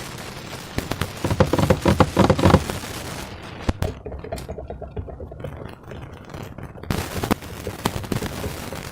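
Slime being worked by hand, making rapid wet crackling and clicking. The crackling is densest and loudest in the first few seconds, then thins to scattered clicks and a few sharp snaps.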